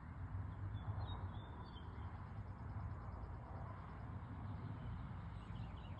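Faint, rapid bird chirps over a steady low rumble, with a few calls about a second in and a quick run of chirps near the end.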